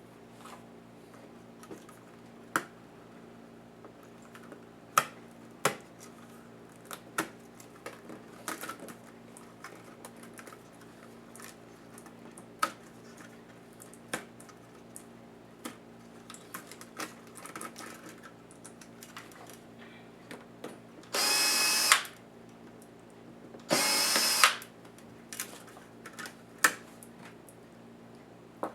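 Small electric screwdriver running twice, each run about a second long, near the end. Around them come scattered clicks and taps of tools and plastic laptop parts being handled.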